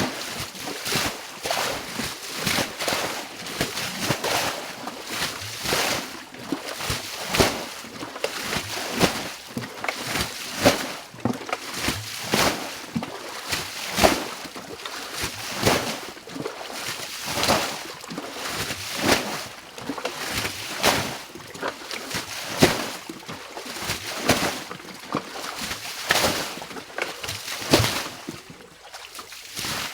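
Water splashing and sloshing in repeated strokes, roughly one or two a second, as water is scooped and thrown out by hand to drain a shallow pond.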